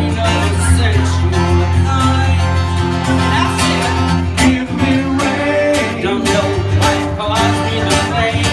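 Live acoustic country-bluegrass music: an instrumental passage of plucked guitar over a steady low bass line.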